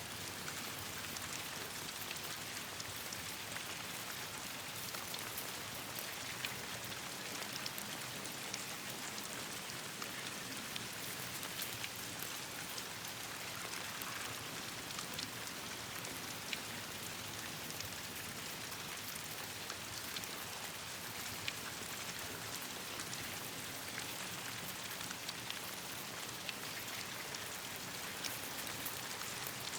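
Steady rain falling on leaves and branches, a continuous hiss with many scattered sharp ticks of individual drops.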